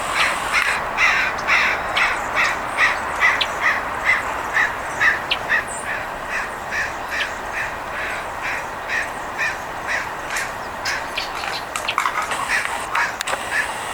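Crow cawing in a long, even series of short calls, about two a second, that fades out about ten seconds in; a few more scattered calls come near the end. The calls are crows harassing a red-tailed hawk perched in a tree.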